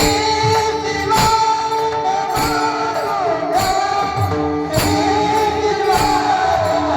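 Devotional kirtan music: a woman's voice holds a long, wavering sung note over instrumental accompaniment, with percussion strikes about once a second.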